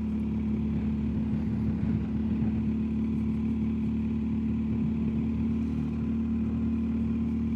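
BMW R1250GS Adventure's boxer-twin engine running at a steady cruise, an even drone with road noise.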